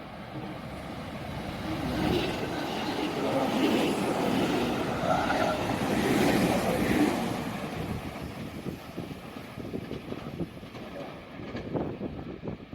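A train passing through a station, its noise building to a peak a few seconds in, then fading into a run of quick clacks from the wheels over the rail joints.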